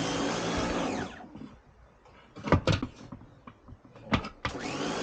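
Kärcher electric pressure washer's motor running with a steady whine, then winding down about a second in as the trigger is let go. After a few knocks, the motor spins up again near the end with a rising whine.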